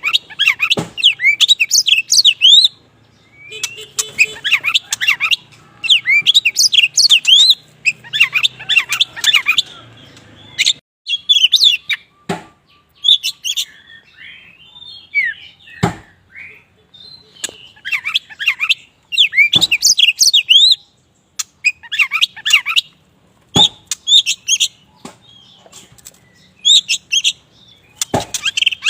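Oriental magpie-robin of the black 'kacer wulung' form singing vigorously. It gives rapid phrases of high, fast chirping notes a second or two long, broken by short pauses and punctuated by a few sharp clicks.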